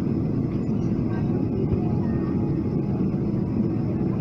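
Steady low rumble of cabin noise inside a Boeing 777-300ER on the ground, from its engines and the running aircraft.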